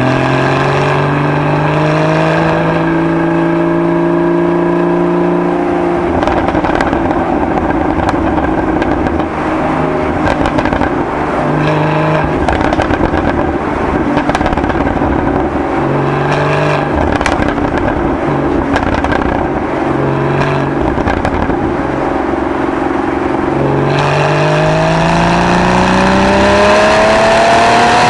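Porsche 981 Boxster GTS's stock exhaust on its 3.8-litre naturally aspirated flat-six, running at a steady pitch at first, then rougher with scattered crackles through the middle. Near the end the note rises steadily as the engine revs up under acceleration.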